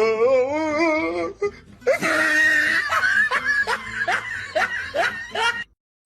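A person laughing hard: a drawn-out wavering laugh, then a run of short breathy laughs about two or three a second, cutting off near the end.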